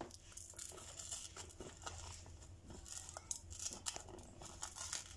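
Faint, irregular crackling and crinkling of crisp fried dried chilies being crumbled by hand.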